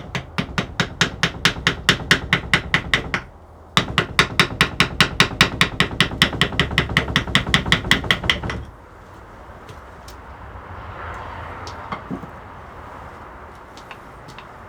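Rapid, even tapping at about six strikes a second, in two runs of about three and five seconds with a short break between them, then a few scattered faint ticks.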